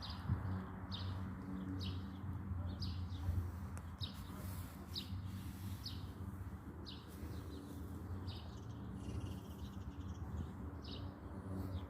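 A bird calling in short, high chirps repeated about once a second, over a steady low hum and background hiss.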